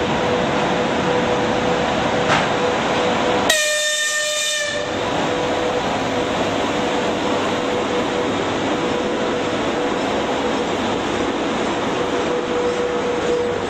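A freight train hauled by a twin-section electric locomotive rolling past at close range, its wheels and wagons making a continuous rumble over a steady hum. A horn sounds briefly, for about a second, about three and a half seconds in.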